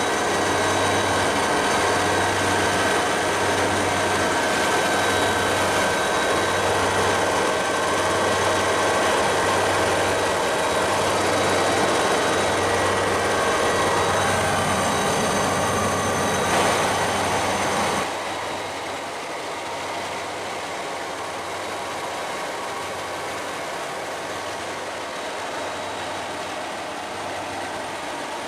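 Helicopter in flight: a steady engine and rotor drone with several high whining tones over it. About 18 seconds in it drops suddenly to a quieter level.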